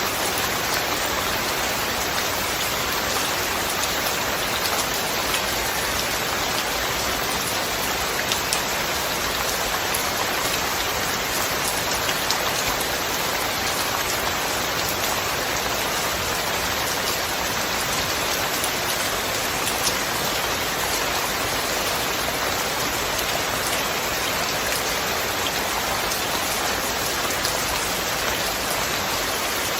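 Steady rain falling: a dense, even hiss of rain with many scattered individual drop ticks.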